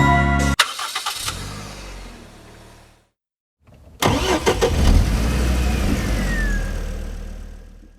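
Two vehicle engine sound clips. The first starts with a sharp click just as the music cuts off and fades out over about two and a half seconds. After a second of silence a louder engine sound comes in, with a high whistle that falls in pitch near the end, and fades away.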